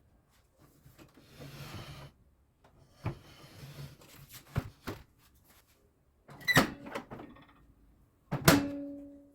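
Clattering knocks of hard objects being handled, with a rustle early in. The two loudest strikes come about six and a half and eight and a half seconds in, and the last leaves a short ringing tone.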